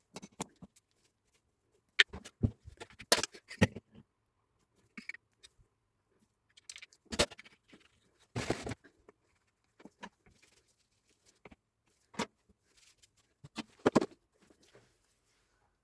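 Hand work on a power tool at the bench: scattered clicks, knocks and short scrapes of metal and plastic parts being handled, with pauses between them. The tool itself is not running.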